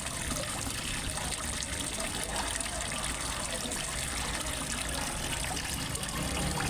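Water trickling and splashing steadily into a fish pond, as from a small pond waterfall.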